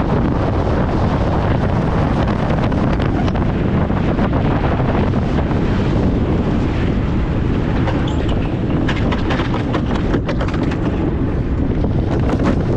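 Wind buffeting the on-board microphone of an unpowered gravity race car coasting downhill, over a steady rumble of its wheels on the road. Frequent sharp knocks and rattles from the car as it runs over the surface, busier in the second half.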